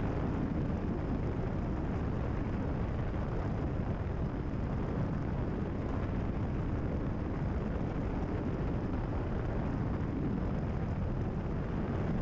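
Cabin drone of a Cessna 172RG's four-cylinder Lycoming engine and propeller, steady at cruise power while the mixture is being leaned out.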